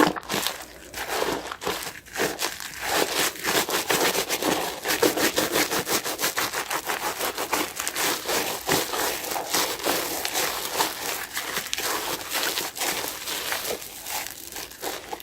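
Soapy, foam-laden sponge being squeezed and worked by hand, the foam crackling with a dense run of tiny pops.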